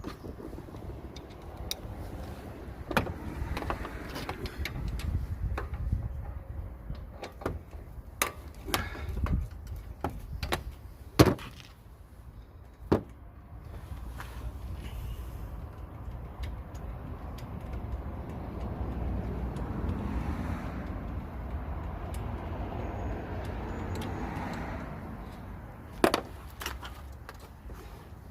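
Scattered clicks, clanks and knocks of hand tools and parts as the intake pipe is worked off a Mitsubishi L200's turbocharger, with a longer stretch of rubbing, rustling noise in the second half.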